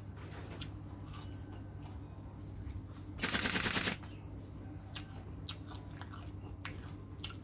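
Close-up chewing of som tam made with raw long beans, with faint crunching clicks. A little past three seconds in, a loud rapid rattle cuts across for under a second.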